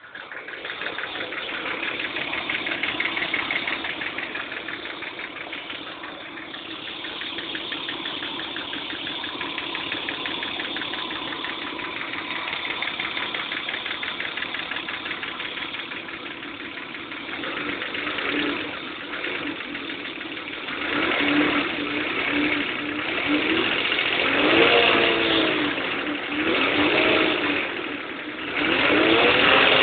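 BMW M50TU 2.5-litre straight-six engine running with a fast, even clicking from the engine, the unexplained noise the owner is asking about. In the second half it is revved several times, the pitch rising and falling with each blip.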